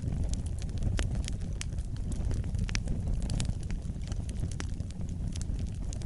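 Wood fire burning: a steady low rumble of the flames with frequent irregular sharp crackles and pops.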